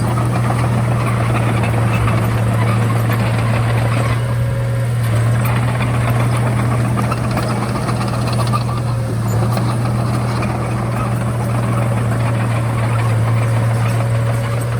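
Komatsu D31A bulldozer's diesel engine running steadily, with a strong, even low hum.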